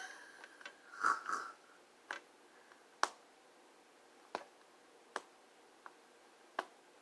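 A paper band being picked at and peeled off a cake: a brief rustle about a second in, then scattered light clicks and ticks, one every second or so.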